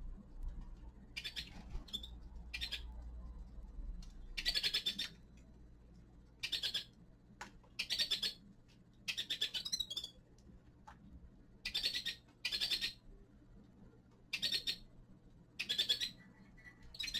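Small finches calling in short rapid bursts of high chirping notes, about a dozen bursts, roughly one every second or so.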